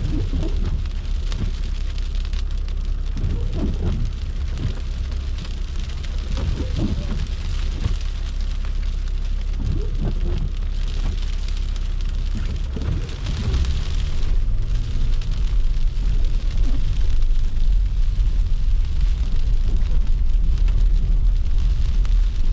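A car driving on snow-covered streets in a snowstorm: a steady low road rumble with a rain-like hiss, getting louder about two-thirds of the way through.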